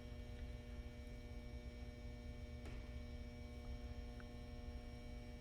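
Quiet steady electrical hum made of a few fixed tones over a low rumble, with one faint click about two and a half seconds in.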